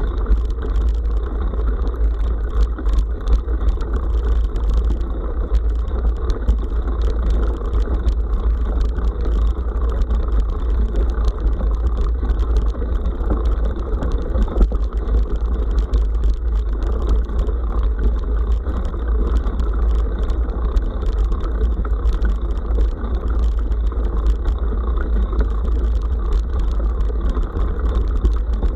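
Riding noise picked up by a bike-mounted SJCAM SJ5000X action camera: a steady low wind rumble on the microphone, with a constant scatter of small clicks and rattles from jolting over a rough forest road.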